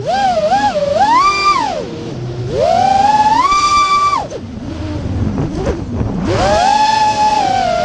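FPV racing quadcopter's brushless motors whining, the pitch swooping up and down with the throttle. About halfway through, the whine drops away to a low rough rumble. About six seconds in, it climbs back to a steady high whine.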